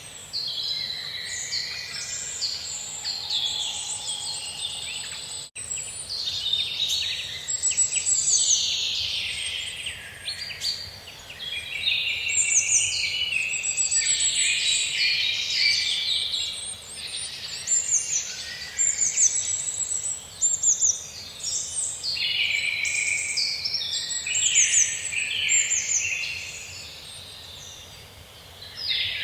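Forest birdsong: several birds singing and calling over one another in a dense, continuous chorus of high chirps and trills, broken by a momentary gap about five and a half seconds in.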